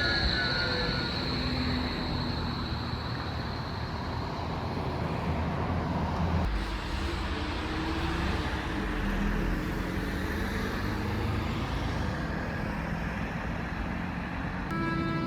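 A tram running through city streets: a steady low rumble and road noise, with a high whine fading out over the first few seconds.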